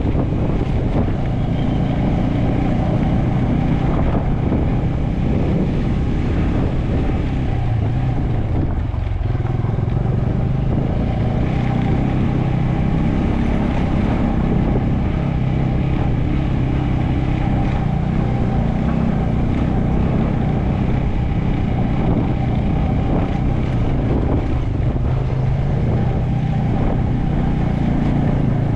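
Motorcycle engine running steadily under way, a constant drone with no change in revs.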